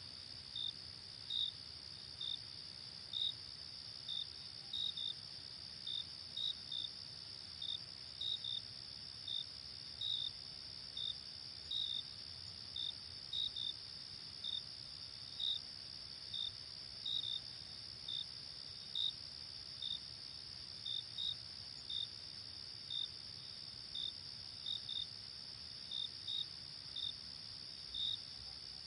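Crickets and other insects: a steady high trill with short chirps repeating about once or twice a second over it.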